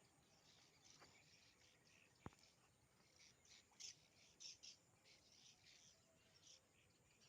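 Faint outdoor birdsong: many short, high chirps, some in quick runs, with a single sharp click about two seconds in.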